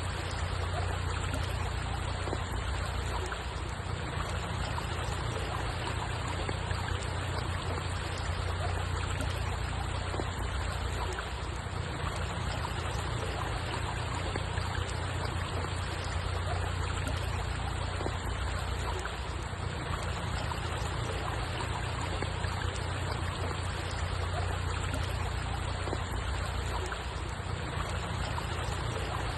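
Running water trickling steadily and without change, over a low rumble.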